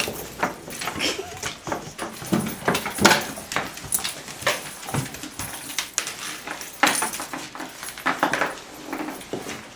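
Excited pet dogs making short vocal sounds as they move about, amid scattered clicks and rustles.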